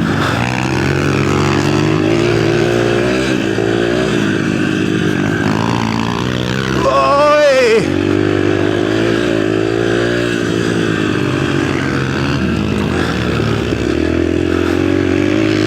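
Mini bike engine running under riding throttle, its pitch rising and falling throughout, with one quick high rev about halfway through.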